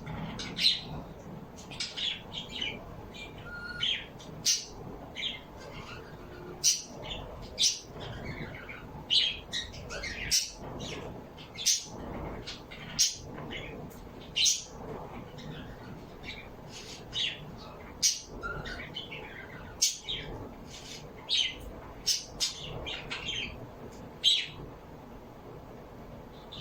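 Small birds chirping: many short, sharp calls in quick irregular succession.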